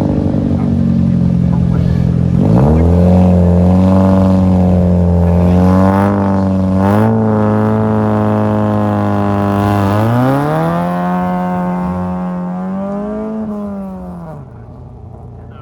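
Rally car engine held at high revs at the start line, then accelerating away through the gears and fading into the distance.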